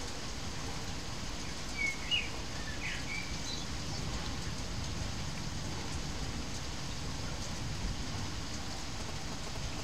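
Steady rain falling, with a few short bird chirps about two seconds in.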